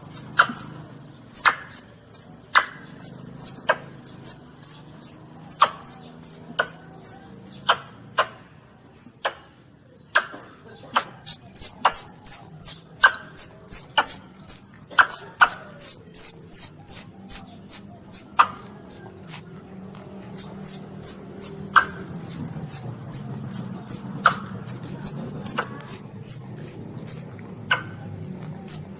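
Baby Asian palm civet (luwak) calling: a rapid series of short, very high squeaks, about two to three a second, each dropping in pitch, with a pause of about two seconds roughly a third of the way through. It is a call recording used to lure civets when hunting.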